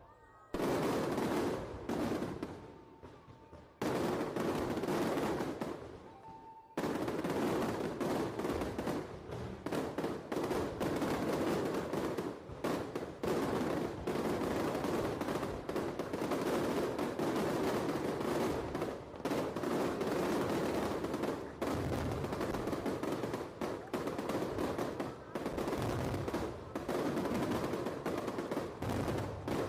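Aerial fireworks going off in a dense, rapid barrage of bangs and crackles, with short lulls in the first few seconds and then an unbroken volley.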